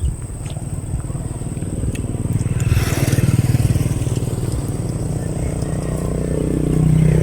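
Motor vehicles passing on a road: a continuous engine drone that swells about three seconds in and again near the end.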